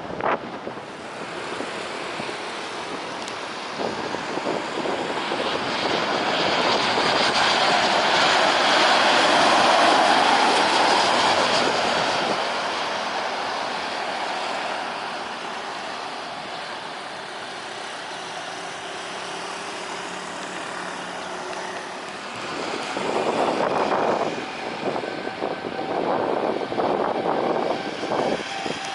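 Jet airliner passing, its engine noise swelling to a peak about ten seconds in and then slowly fading, with a second, rougher swell of noise near the end.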